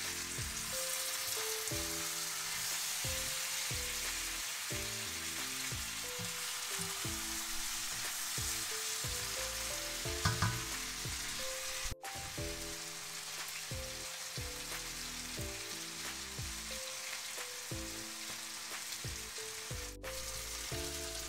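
Chicken pieces, onions and tomatoes sizzling in a hot wok, a steady frying hiss, with a brief sharper clatter about halfway through.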